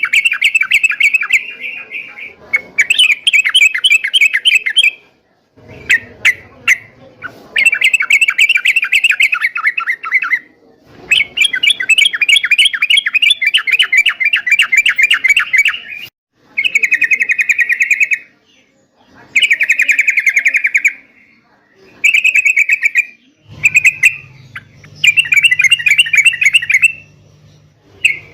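Yellow-vented bulbul singing in repeated phrases of rapid chattering notes, each phrase one to four seconds long with short pauses between. A faint low hum comes in near the end.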